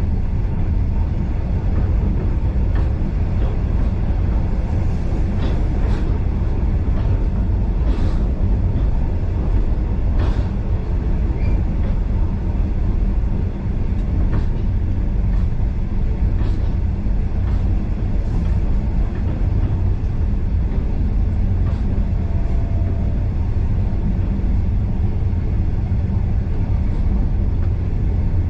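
Passenger carriage of a steam-hauled train running along the line: a steady low rumble with short clicks and squeaks scattered through it.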